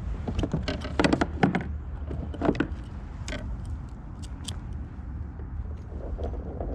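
Fishing gear being handled in a kayak: a scatter of clicks, knocks and rattles, busiest in the first two seconds, over a steady low rumble of wind on the microphone.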